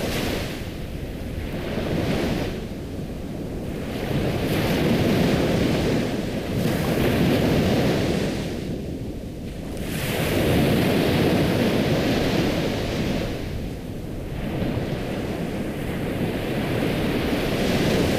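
Ocean waves washing onto a shore, a steady rush of surf that swells and ebbs every few seconds.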